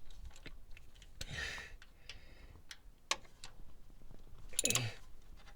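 Scattered light clicks and clinks of a hand tool on metal bolts as the oil filter adapter bolts are worked loose, with a brief rustle about a second and a half in and a louder knock near the end.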